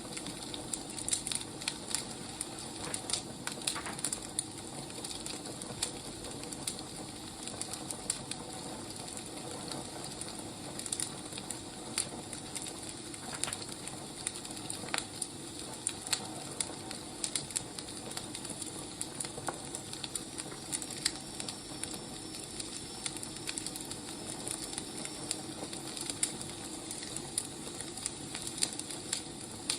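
Wood fire burning, crackling with sharp irregular pops over a steady hiss.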